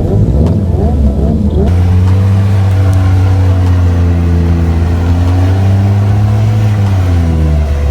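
Car engine revving: its pitch swings up and down at first, then holds a steady high rev for several seconds, and dips and climbs again near the end.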